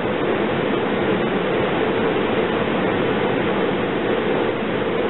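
A SEPTA Silverliner IV electric railcar standing at the platform, its onboard equipment running with a steady rushing hum.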